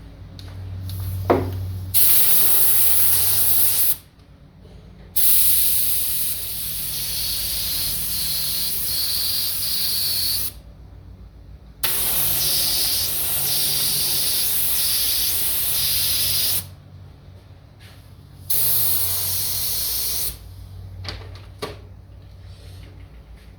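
Paint spraying in four hissing bursts, the longest about five seconds, with short pauses between: thinned touch-up paint being sprayed to blend the edges of a repair into a guitar's finish.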